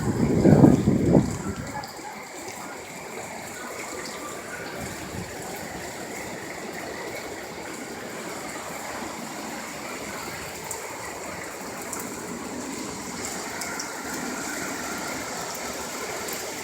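Steady rushing of hurricane wind and rain, with a louder low rumble in the first second or two.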